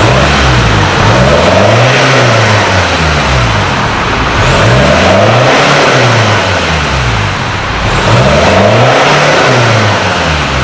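Ford Ranger 2.2 four-cylinder turbodiesel engine breathing through an aftermarket full exhaust system, revved three times, each rev rising and then falling back over two to three seconds.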